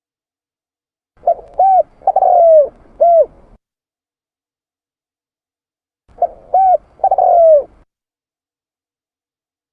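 Spotted dove (tekukur) cooing: two phrases about five seconds apart, each a few short arched coos run into a longer drawn-out note.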